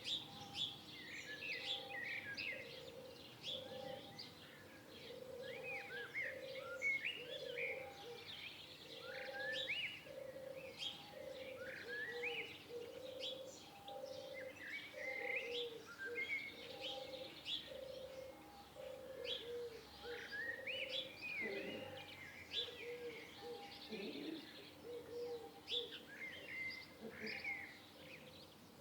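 Several birds chirping and singing in quick short notes and glides, over a lower call repeated at a steady pace about once a second.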